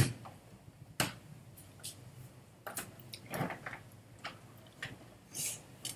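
Faint handling sounds: a few light clicks and soft rustles of small objects being moved around while someone searches through a collection of squishy toys.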